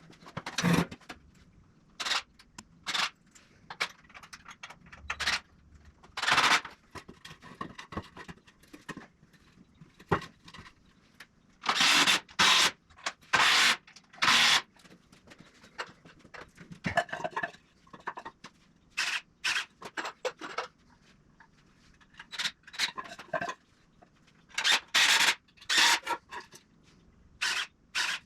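Wood-building work noise: irregular short, sharp clatters and scrapes, bunched in clusters with short pauses between.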